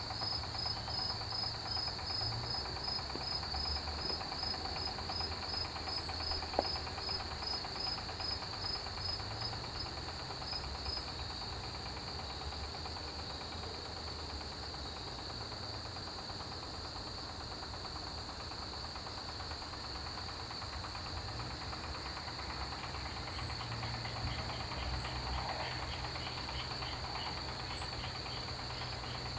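Chorus of autumn grass insects, crickets among them: a steady high trill with a faster pulsed chirping over it that stops about a third of the way in. A low rumble runs underneath, and there is a single sharp click about a quarter of the way through.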